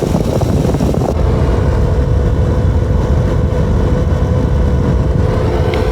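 Dryer exhaust air blowing hard out of a freshly cleaned wall vent onto the microphone, a steady low rumble of rushing air, with a steady hum coming in about a second in. The strong flow, over 16 miles per hour, shows the vent is now clear of lint.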